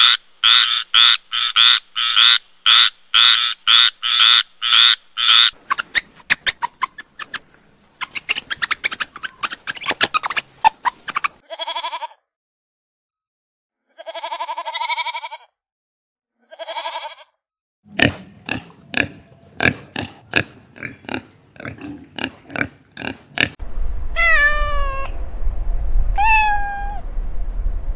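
A run of different animal calls and noises, one clip after another with short silent breaks: a fast series of repeated calls at the start, then clicks and brief pitched cries, and falling chirping calls over a low rumble near the end.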